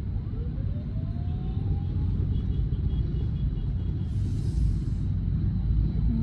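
Steady low rumble of engine and road noise heard inside a car crawling through city traffic. A faint whine rises in pitch over the first two seconds, and a brief hiss comes about four seconds in.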